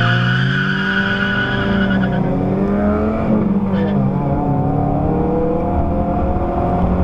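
Vehicle engine accelerating hard from a standing start, its pitch climbing, dropping at a gearshift about four seconds in, then climbing again. A steady high whine sits over the engine for the first couple of seconds.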